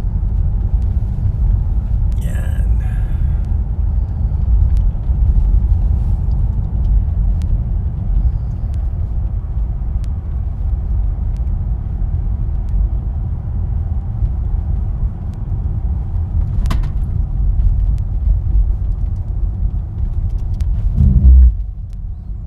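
Steady low rumble of a car driving, heard from inside the cabin: engine and road noise. Near the end it swells briefly, then drops quieter.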